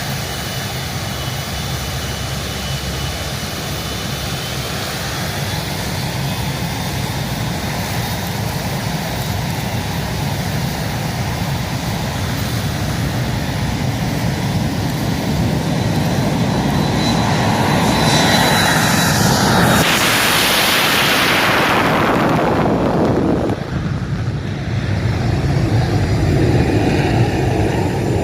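Military aircraft flying past overhead, growing louder to a peak with a falling pitch about twenty seconds in, then dropping away sharply.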